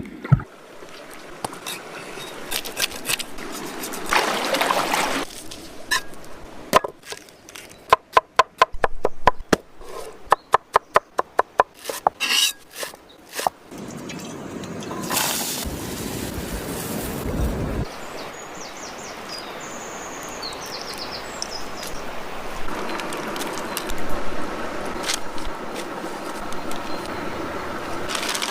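Fish being prepared and cooked by hand: a quick run of sharp knocks and taps partway through, other handling and scraping noises, then a steady hiss.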